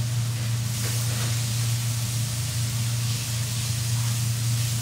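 Tomato-and-spice tadka sizzling and hissing gently in a wok over a gas flame, left to cook down, with a steady low hum underneath.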